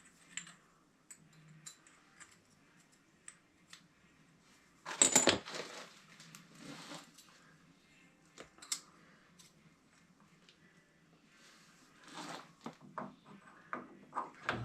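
Small metallic clinks and taps of copper pipe and elbow fittings being handled and knocked together, with one louder clatter about five seconds in and a quick run of knocks near the end.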